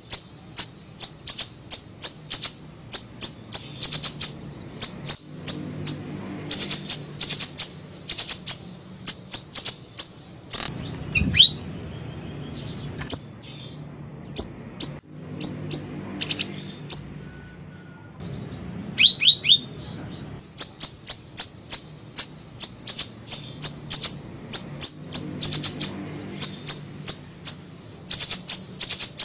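Recorded song of a small siri-siri bird used as a lure call: rapid bursts of very high, thin chirps repeated over and over. It breaks off twice for a few seconds, when a few lower notes slide downward.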